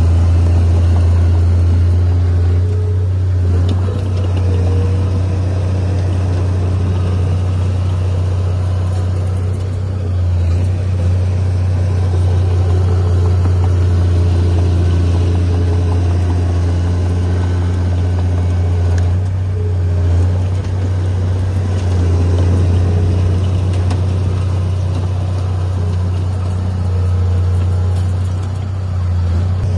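Heavy diesel engine of earthmoving machinery running steadily with a deep drone, easing off briefly a few times as its load changes.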